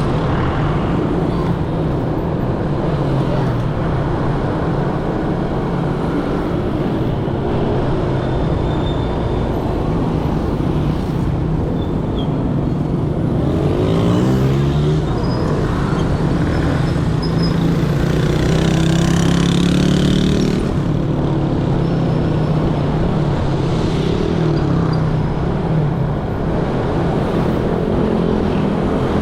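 Motorcycle engines and dense street traffic heard from a moving motorcycle, with engine pitch rising and falling as bikes accelerate and pass, and a louder stretch about two-thirds of the way through.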